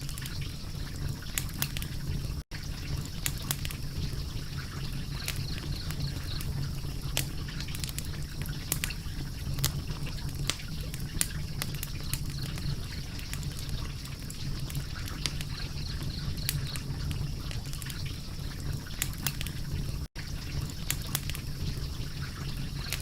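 Wood fire crackling: irregular sharp pops and snaps over a steady low rumble of the flames. The sound cuts out for an instant twice.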